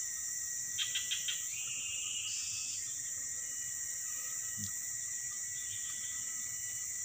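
Steady high-pitched drone of an insect chorus in tropical forest, with a faint steady tone under it. About a second in, a quick series of four or five chirps is followed by a brief held note.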